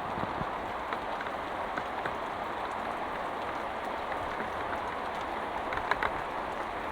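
Heavy rain falling steadily, with a few sharper drop ticks standing out now and then.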